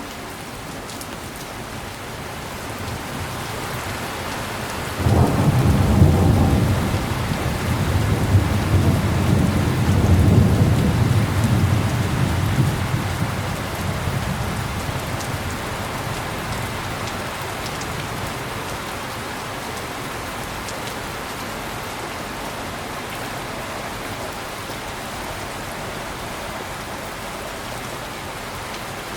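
Steady heavy rain, with a thunderclap that breaks in suddenly about five seconds in and rumbles low for several seconds before fading back under the rain.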